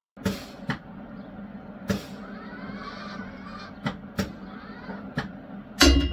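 Several sharp clicks and knocks, spaced irregularly, over a steady low hum, with one louder knock near the end.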